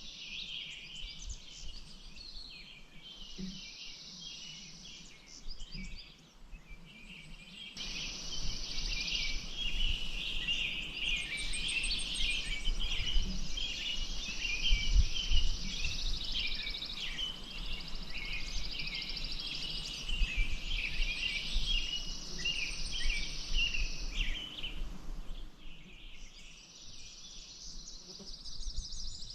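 Outdoor ambience of many small birds chirping and twittering all through, with spells of a high, steady buzz that start and stop every few seconds. A soft rushing noise with a low rumble swells up about eight seconds in and fades near the end.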